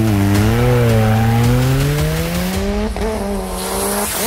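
A vehicle engine accelerating hard, its pitch climbing slowly and then dropping suddenly twice, as with upshifts through the gears.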